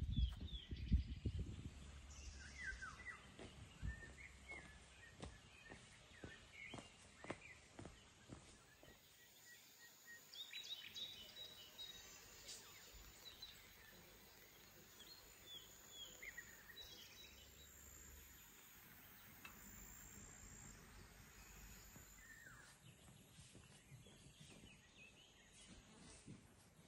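Faint outdoor ambience with scattered short bird chirps, and a few low thumps in the first second or two.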